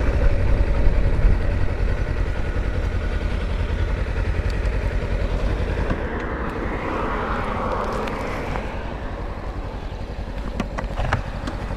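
Kawasaki Versys-X 300's parallel-twin engine running at low revs as the motorcycle pulls up and idles, slowly getting quieter. A swell of noise rises and falls around the middle, and a few light clicks come near the end.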